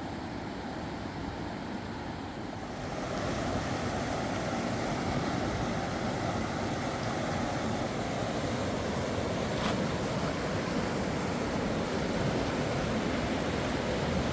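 Rushing river water: a steady noise that grows louder about three seconds in.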